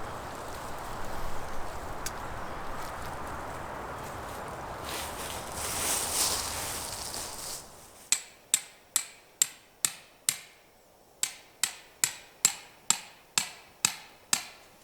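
A steady rushing background noise that cuts off suddenly about eight seconds in, then a run of sharp hammer blows, about two a second, in two runs with a short pause between: five blows, then eight.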